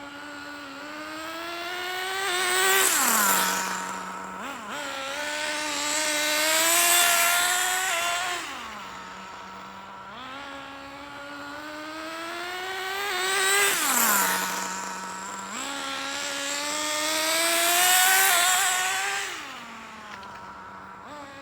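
Nitro RC car's SH-18 two-stroke glow engine running at moderate throttle during break-in, the car lapping so that four times the engine pitch climbs as it accelerates, grows loud as it passes, then drops sharply as it goes by or brakes.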